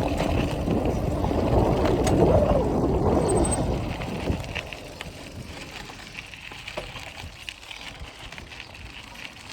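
Wind rushing over the microphone with road noise while riding a bicycle, easing off about four seconds in to quieter rolling with scattered light clicks.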